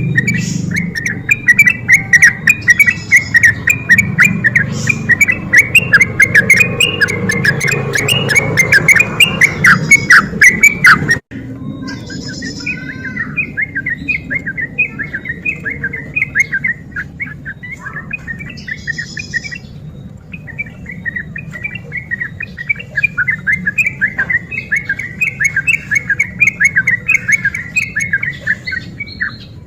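Yellow-vented bulbul (trucukan) singing: rapid bubbly chattering phrases, repeated without pause over a low background hum. The calling breaks off abruptly about a third of the way in, then carries on a little quieter.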